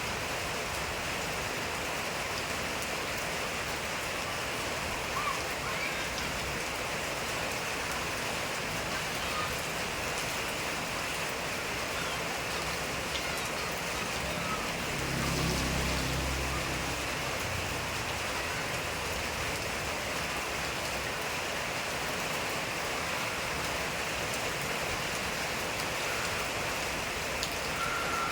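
Steady rain falling, an even hiss, with a low rumble swelling and fading for a couple of seconds about halfway through.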